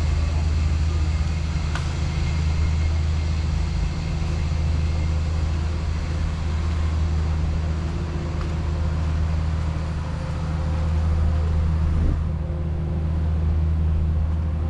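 Steady low rumble of road traffic, with a constant low hum throughout.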